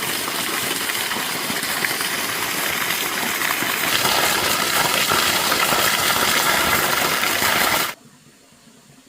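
Water gushing in a steady rush, growing louder about four seconds in and cutting off suddenly near the end.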